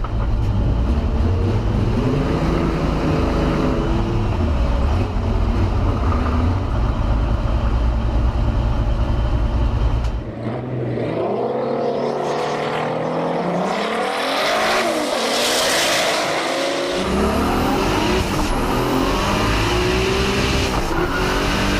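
Turbocharged VR6 engine of a twin-engine Volkswagen GTI drag car running hard, its pitch rising and falling with the revs. About ten seconds in the sound changes abruptly: the deep low end drops away, leaving higher, rising and falling engine tones, and the low end returns about seventeen seconds in.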